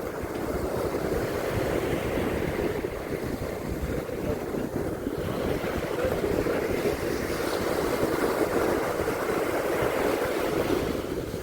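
Sea waves washing onto a beach, with wind buffeting the microphone; a steady rushing noise that swells and eases gently.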